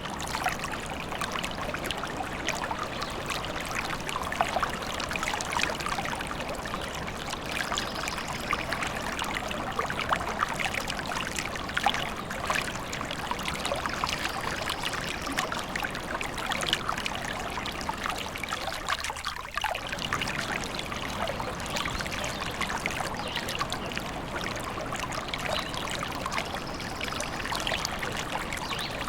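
Small stream trickling steadily, a dense, even babble of water.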